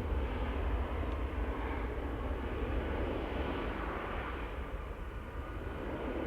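Aircraft engines running with a steady rumble and hiss, easing slightly over the first few seconds.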